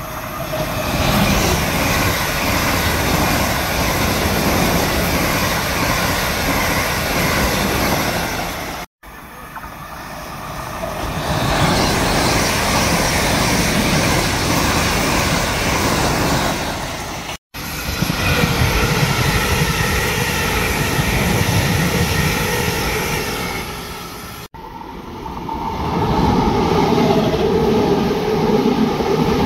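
Electric multiple-unit trains running past on the track in four separate passes, each a loud rush of wheel and running noise that swells and fades, with abrupt cuts between them. One pass is a Class 450 Desiro unit; in the last, a Class 455 unit runs along the platform with a steady whine over the wheel noise.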